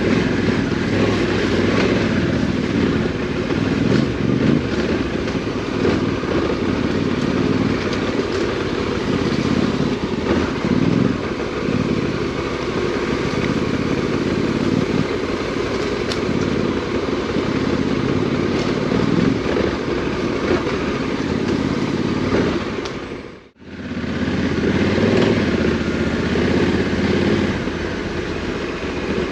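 Parallel-twin adventure motorcycle engine on an off-road trail, revs rising and falling with the throttle. About two-thirds of the way through the sound drops out briefly to near silence, then comes back.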